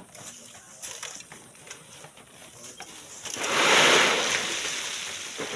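A rush of loose sand and gravel sliding and pouring, swelling up suddenly about three seconds in and trailing off, after faint scattered ticks of small stones.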